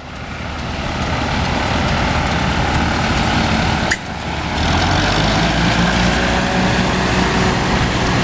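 Antique farm tractor engine running as it drives past, a steady low drone that grows fuller about halfway through. There is a sharp click with a brief dip in level at the start and again about four seconds in.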